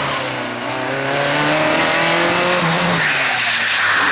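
Race car engine at hard throttle, its pitch climbing steadily, then breaking off about three seconds in at a gear change, with a rush of tyre noise.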